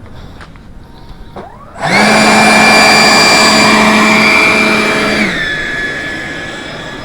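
A 3D-printed L-39 model jet's electric ducted fan spins up quickly about two seconds in. It holds a steady, loud, high whine for about three seconds, then drops to a lower pitch as it is throttled back and winds down.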